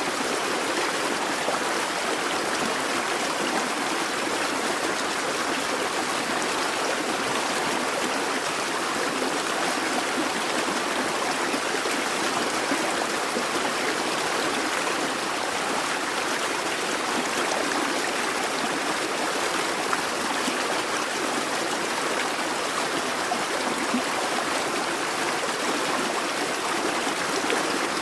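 Babbling brook: shallow water running and splashing over stones in a steady, unbroken rush.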